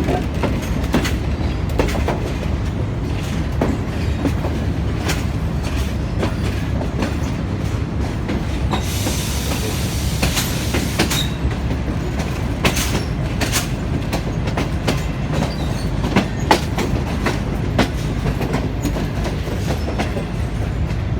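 Passenger train rolling on the rails: a steady low rumble with irregular sharp clicks of the wheels over rail joints and points, and a hissing burst of about two seconds some nine seconds in.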